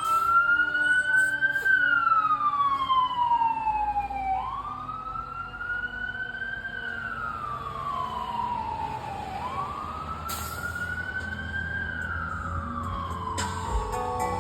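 Fire apparatus siren in a slow wail: the pitch climbs quickly, then slowly, and falls away over about five seconds, three times over.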